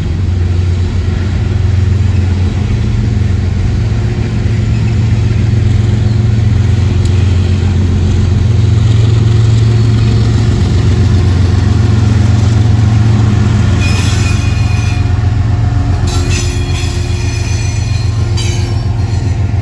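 Loaded freight train of steel gondola cars rolling past, then the rear GE ES44 diesel-electric locomotives (distributed-power units) going by with a steady low engine drone. High-pitched wheel squeal comes in during the last few seconds.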